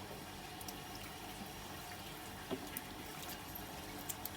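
Water trickling and dripping during a puppy's bath, a steady low hiss with a few faint scattered drips and splashes.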